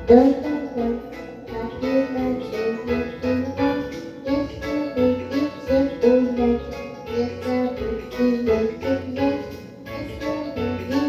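Piano playing a simple melody of single notes struck one after another, each note dying away, in a repeating pattern.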